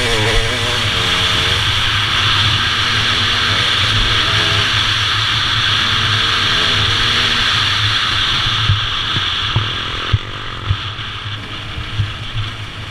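Motorcycle engine running on the move, with heavy wind noise on the mount-camera microphone; the engine pitch wavers up and down in the first second or so. After about eight seconds it grows quieter, and a few sharp knocks come through near the end.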